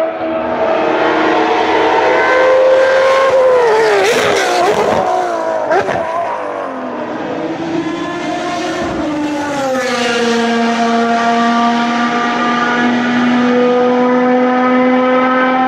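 Ferrari racing car engines, with pitch swinging up and down as revs change and several notes overlapping a few seconds in. In the second half one engine holds a steady note that climbs slowly.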